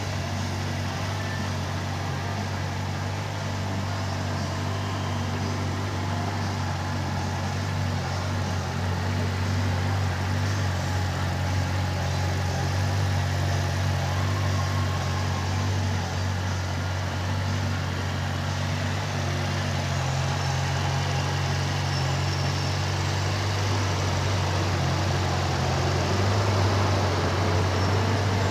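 Yamaha R6's 599 cc inline-four engine running steadily at idle, with no revving.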